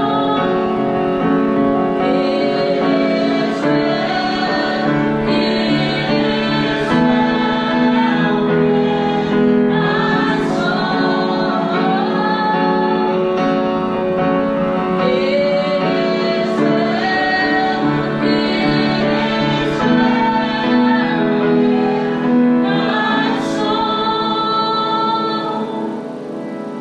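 Worship music: voices singing a gospel-style song with instrumental accompaniment, steady throughout and easing off slightly at the end.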